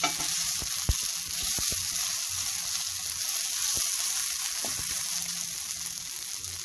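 A coconut, tomato and onion chammanthi mixture sizzling steadily in a nonstick pan, with a wooden spatula now and then knocking and scraping against the pan; the sharpest knock comes about a second in.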